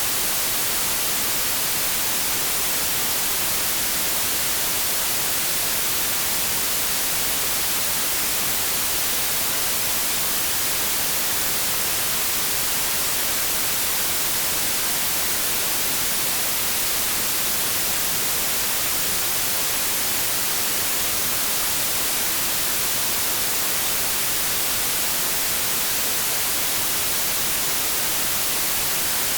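Continuous synthetic white noise: a steady, even hiss, strongest in the treble, with no change in level.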